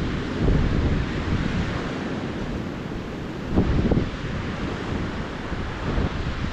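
Ocean surf washing onto a beach, with wind buffeting the microphone. The rumble swells about half a second in and more strongly about three and a half seconds in.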